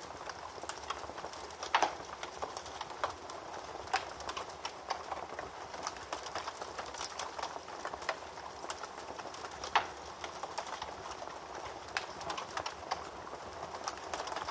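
Wood fire burning in a fireplace: a steady soft hiss with frequent crackles and sharp pops, the loudest about two, four and ten seconds in.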